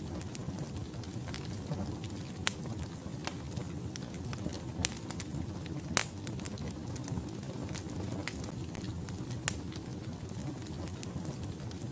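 Wood fire burning in a fireplace: a steady low rumble of flames with scattered crackles and a few sharp pops of the burning logs, the loudest about 6 seconds in.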